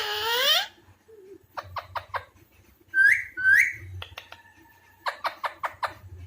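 Alexandrine parakeet calling: a loud call falling in pitch at the start, a quick run of clicks, two short rising whistles about three seconds in, and another run of clicks near the end.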